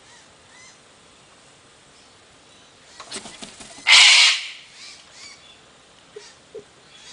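A parrot gives one loud, harsh screech about four seconds in, just after a quick run of clicks and scuffling. A few faint short chirps come before and after it.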